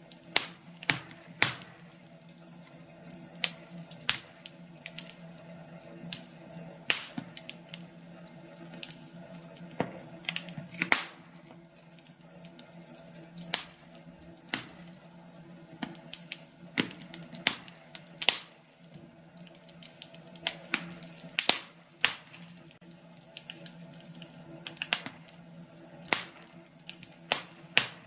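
Wood fire in a fireplace crackling, with irregular sharp pops and snaps from the burning logs, roughly one every second or so, some much louder than others, over a steady low background.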